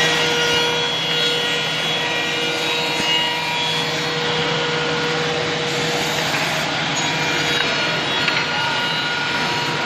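Single-head CNC tenoning machine running and cutting wood: the cutters make a steady rasping noise over a constant motor whine.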